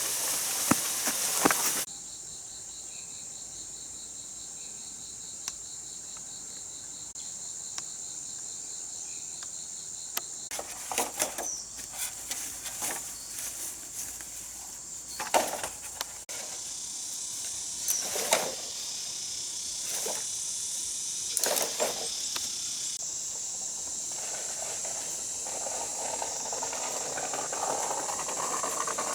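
Insects chirring steadily in a high pitch, with a few short knocks and scrapes from hand work now and then.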